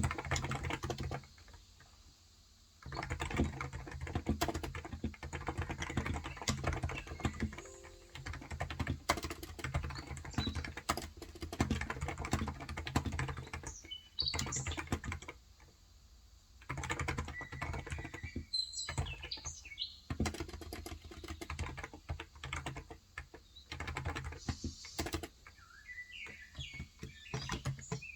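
Fast typing in bursts on a Cox Endeavor electrostatic-capacitive tenkeyless keyboard with 35 g keys, pausing briefly a few times. Birds chirp in the background in the second half.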